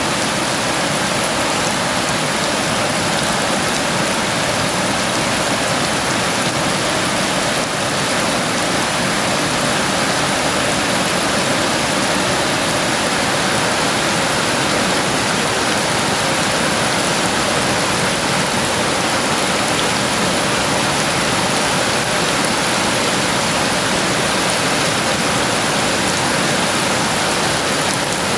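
Heavy rain falling steadily, a dense even hiss without pauses.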